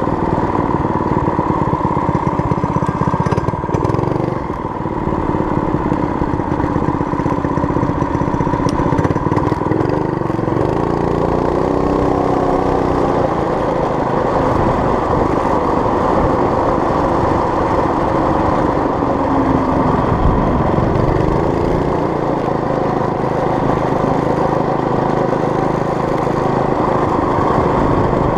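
Small engine of a homemade mini bike running under way as it is ridden, its pitch rising and falling with throttle changes twice along the way.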